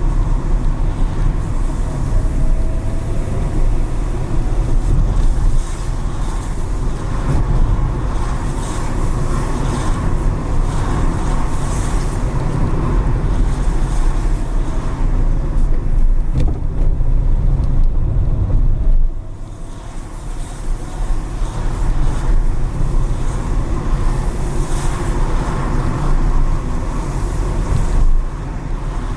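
A car driving through city streets, with a steady low engine and road rumble and tyre hiss on wet asphalt. About two-thirds of the way through, the rumble drops away for a second, then comes back.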